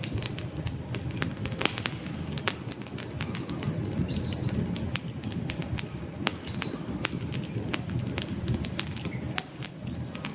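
Wood campfire burning: a steady low noise of flames with frequent, irregular sharp crackles and pops from the burning logs.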